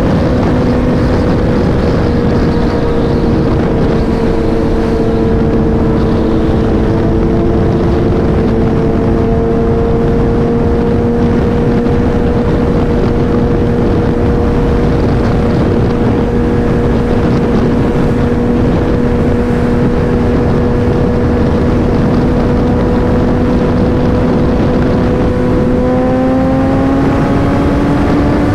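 Motorcycle engine at a steady cruising note under a dense rush of wind and road noise, its pitch rising near the end as the bike accelerates.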